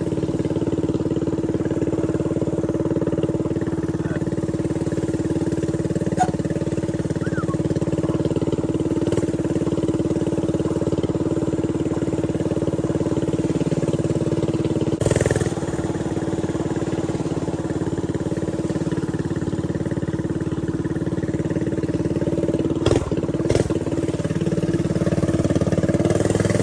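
Stretched mini bike's small engine running at a steady speed, with a short loud noise about halfway through and a couple of brief knocks later.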